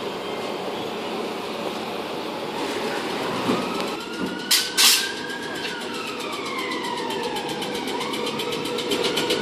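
Southern electric multiple-unit train moving along a station platform: a steady rumble with the electric traction motors' whine gliding up and down in pitch. Two sharp clicks come about four and a half seconds in.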